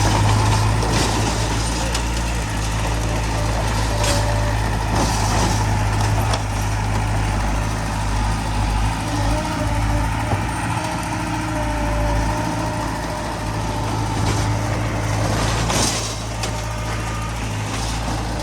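Heavy diesel machinery running steadily: a dump truck and a bulldozer working, with a few short knocks and rattles over the engine hum, the loudest about sixteen seconds in.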